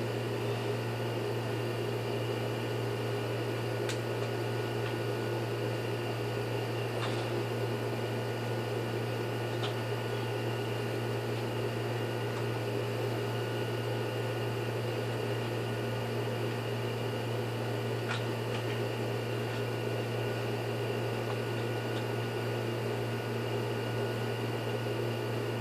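Steady electric motor hum with a constant whine over it, unchanging, with a few faint ticks.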